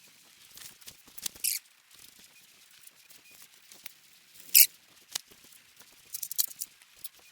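Irregular light clicks and knocks of tools and parts being handled on a workbench, the loudest one about halfway through and a quick run of small clicks near the end.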